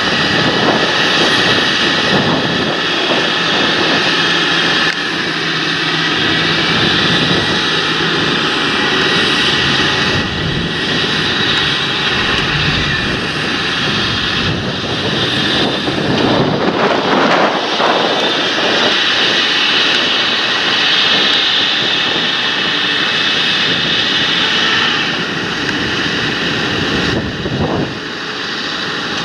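Large John Deere tractor's diesel engine working in the field, a loud steady drone with a high whine running through it.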